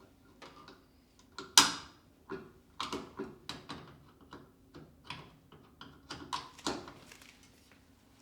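Irregular clicks and knocks of household objects being handled and set down, with one sharp, loud knock about one and a half seconds in. A faint steady hum runs underneath.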